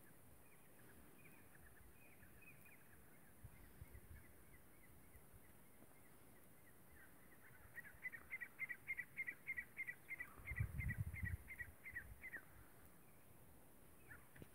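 A bird calling in a long run of short, slightly dropping chirps: faint and scattered at first, then louder and regular at about four notes a second for several seconds in the second half. A low rumble of wind or handling on the microphone joins in during the loud run.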